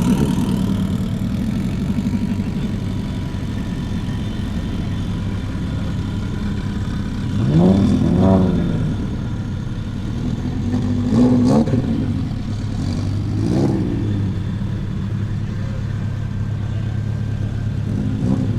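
Car engine running with a steady low rumble. It is revved three times, about eight, eleven and thirteen seconds in, the pitch rising and falling each time.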